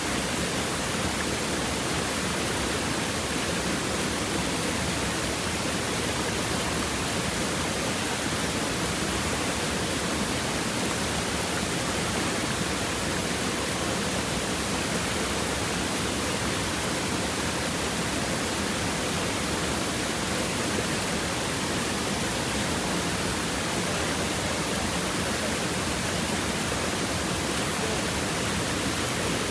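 River water flowing and babbling over rocks, a steady, even rush.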